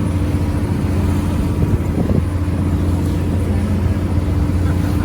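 Tour boat's engine running steadily under way, heard on board as a constant low drone.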